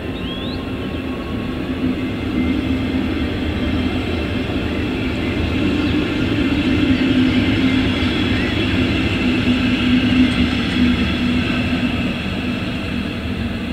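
A red double-deck regional passenger train rolls slowly past on the rails, a steady rumble of wheels and running gear. It swells a little in the middle, with a faint high whine over it.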